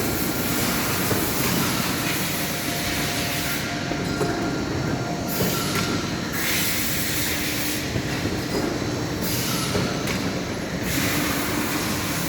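Automated industrial production line running: a steady mechanical rumble with faint steady tones, and a high hiss that cuts out and comes back several times.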